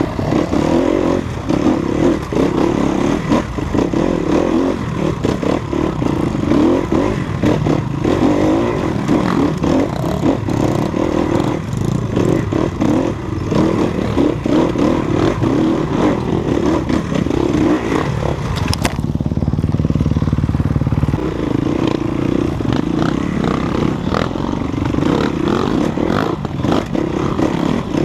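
Off-road enduro motorcycle engine running as it rides a rough dirt trail, the throttle coming on and off, with rattling and scraping over the ground. Around nineteen seconds in, the engine note briefly steadies and the rattle drops away for a couple of seconds.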